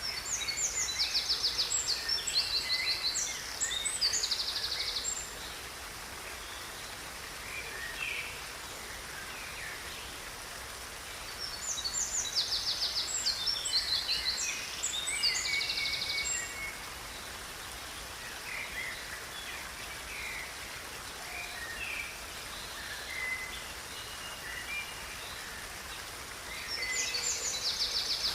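A songbird singing long phrases of fast trills and chirps in bouts about every twelve seconds, with scattered single notes between, over a steady background hiss.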